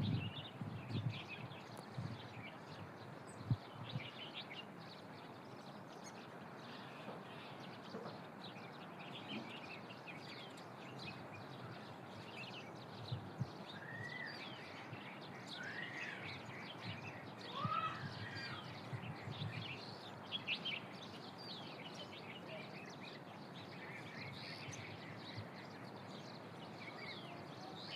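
Outdoor ambience with many small birds chirping, a few clearer whistled calls among them about halfway through, over a faint steady background hiss.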